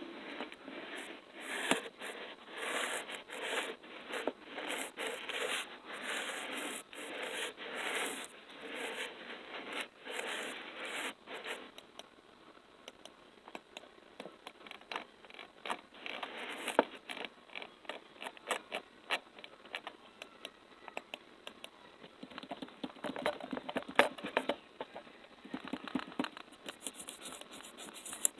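Close-miked ASMR sounds: a run of short sticky, scratchy noises about twice a second for roughly the first twelve seconds, then light quick tapping clicks, with the sticky noises returning near the end.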